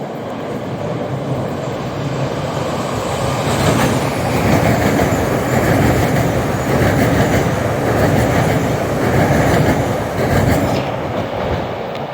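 MBTA Orange Line CRRC subway train passing through the station, its wheels clattering over the rail joints. It builds over the first few seconds, is loudest through the middle and eases off near the end.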